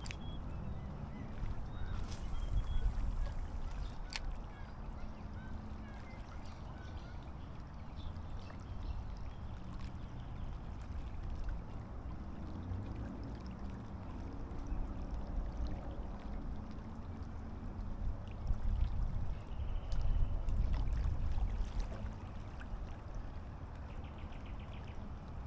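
Wind buffeting the microphone as a low rumble that swells in gusts, loudest about two seconds in and again near the end, with a few faint high chirps.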